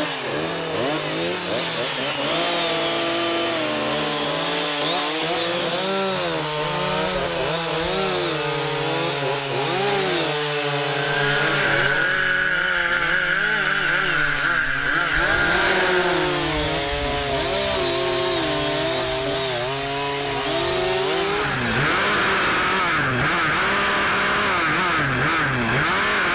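Two chainsaws carving into a wooden block, their engines revving up and down over and over as they cut. Twice a steady high whine rises above the engine noise for several seconds.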